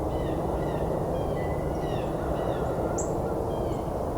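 Northern cardinal giving a sharp, high chip call about three seconds in, among scattered faint, short high bird notes, over a steady low background noise.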